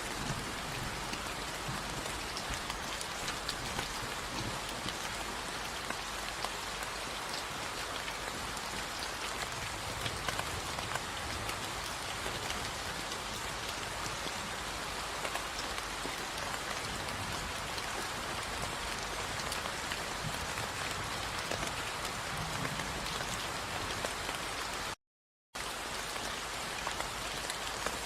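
Steady rain falling on a surface, an even hiss with fine ticks of individual drops. Near the end it cuts out to silence for about half a second, then resumes.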